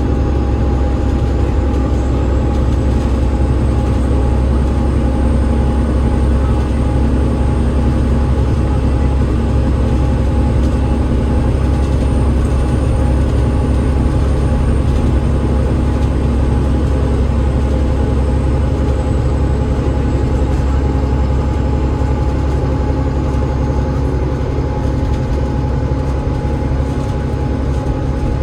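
Enviro500 MMC double-decker bus with its Cummins ISL8.9 diesel engine and ZF EcoLife automatic gearbox running steadily under way: a constant low rumble with a steady whine over it.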